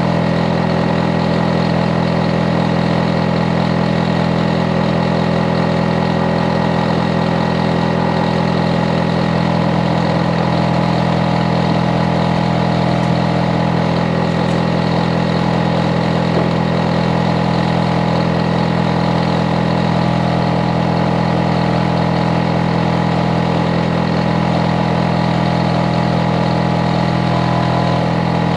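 Hitachi air conditioner outdoor unit running, a steady hum made of several constant tones with no change in speed, the noise a neighbour complains of as excessive.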